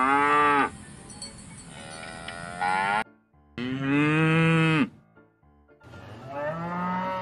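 Cattle mooing: four drawn-out moos, one after another, with short pauses between them and a sudden cut just after the second.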